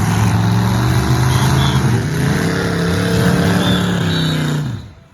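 Demolition derby cars' engines running loud and revving up and down, cutting off suddenly near the end.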